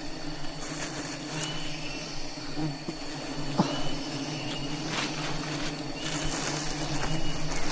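Honeybees buzzing in a steady low drone, over a constant high-pitched insect whine, with a few sharp clicks about three and a half and five seconds in.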